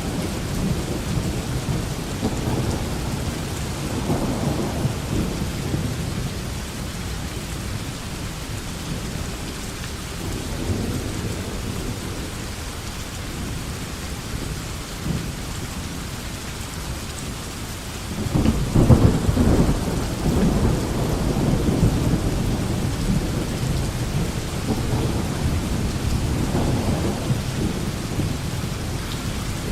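Steady rain with thunder rumbling now and then. The loudest roll of thunder begins about eighteen seconds in and rumbles for several seconds before fading back under the rain.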